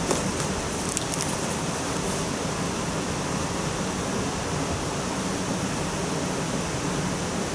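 Steady rushing noise of water pouring from the overflow into a canal lock.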